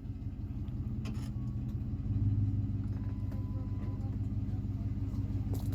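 Ford F-150 pickup engine idling with a steady low hum, swelling briefly about two seconds in.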